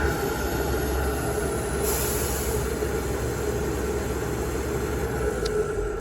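Heavy diesel construction machinery running steadily, the excavator and dump truck engines held at idle, with a faint steady whine over a low drone. A short hiss comes about two seconds in.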